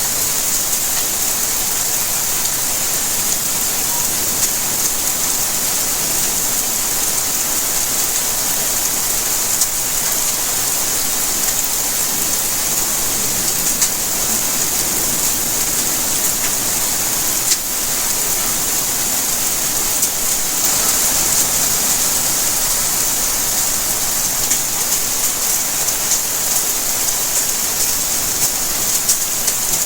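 Steady rain falling, a continuous hiss with scattered drops ticking on surfaces and a few sharper drips along the way.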